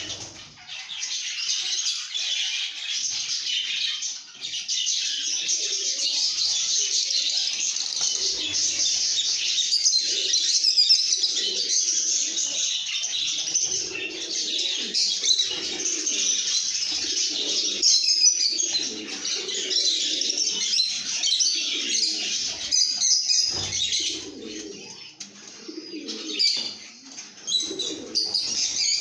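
A group of parblue lovebirds chirping and chattering nonstop in high, shrill calls, the happy chatter of content birds. Lower-pitched calls come and go underneath.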